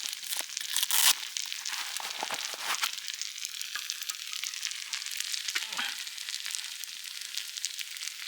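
Food sizzling and spitting in a hot frying pan, a dense crackle with one louder pop about a second in.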